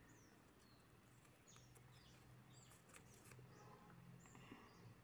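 Near silence: room tone with a faint low hum and scattered faint bird chirps in the background.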